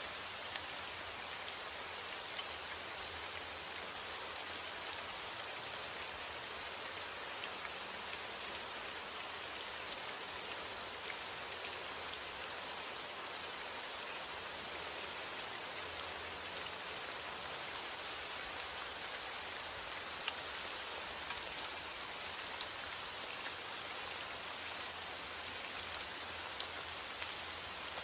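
Steady heavy rain: a dense, even hiss with many small drop ticks scattered through it.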